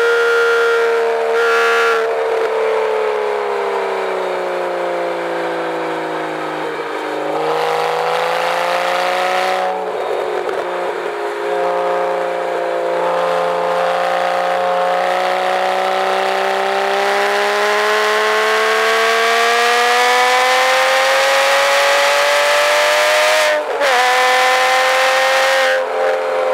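2007 Porsche Cayman S flat-six engine heard from inside the cabin on a track lap. The engine pitch falls while the car slows, breaks off with gear changes at about seven and ten seconds in, then climbs steadily for about twelve seconds under hard acceleration, with a brief break near the end.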